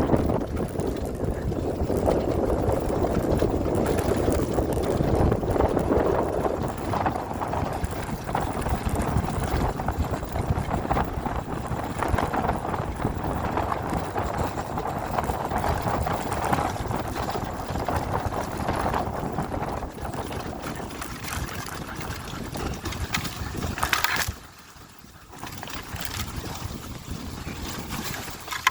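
Dirt bike being ridden: a steady rush of engine and wind noise on the microphone. It drops away sharply about 24 seconds in, then picks up again.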